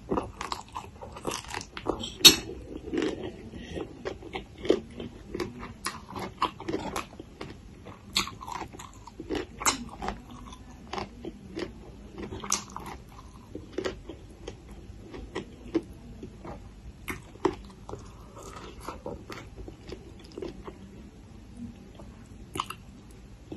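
Close-up crunchy chewing and biting of raw spicy papaya salad, with many sharp, irregular crunches throughout.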